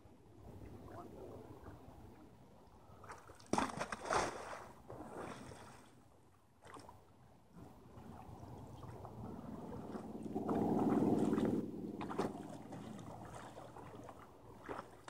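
Water splashing and sloshing around a kayak hull as it moves in the pond. There is a sharp splash about three and a half seconds in, and a louder muffled gurgling surge a few seconds later.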